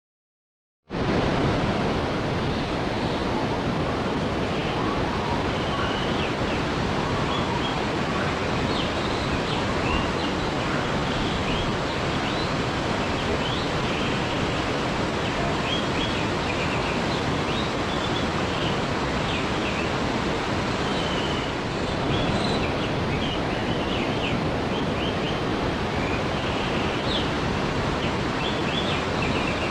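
Waterfall rushing steadily, starting about a second in, with birds chirping briefly and often over the water.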